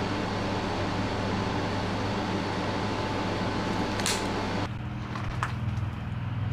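A steady mechanical hum: a low drone under a broad hiss. A brief high swish comes about four seconds in, and shortly after, the sound cuts abruptly to a quieter low hum.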